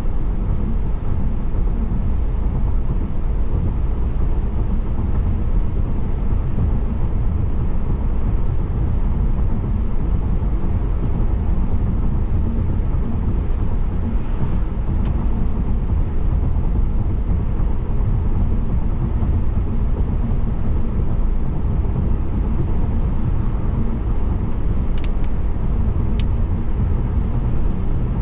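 Steady road noise of a car driving: an even low rumble of tyres and engine. A few faint sharp clicks come about halfway through and again near the end.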